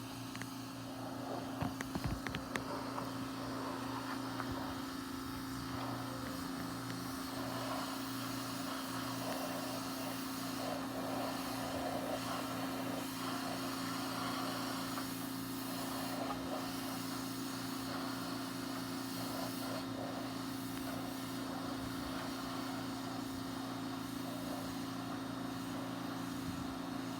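Pressure washer engine running steadily under the hiss of its high-pressure water spray.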